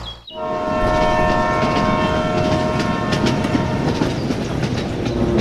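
A horn sounding one held chord that fades out after about four seconds, over a continuous rattling clatter.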